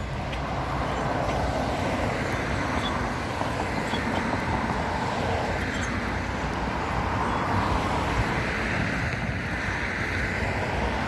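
Steady road traffic noise, a continuous rumble with cars swelling and fading as they pass.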